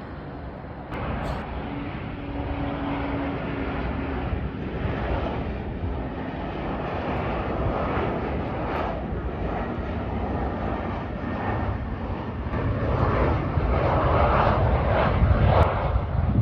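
Jet airliner passing low overhead, its engine noise a steady roar that builds to its loudest near the end and then drops off abruptly.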